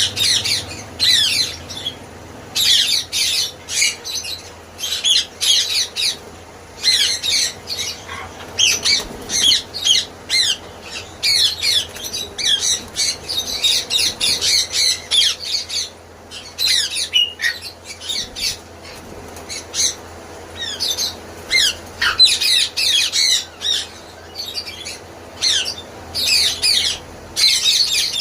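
Parrots squawking and chattering: many short, sharp, high-pitched calls in quick bursts, overlapping with only brief pauses.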